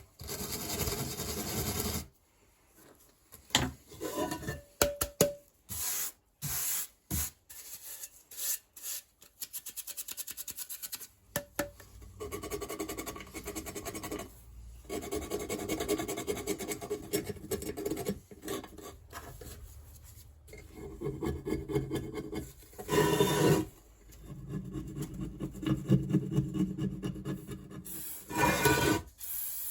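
Brush scrubbing and scraping on a badly corroded BMW R1200GS timing cover, cleaning off loose corrosion and old paint. It comes in irregular runs of rough strokes with short pauses, and there are two harder bursts near the end.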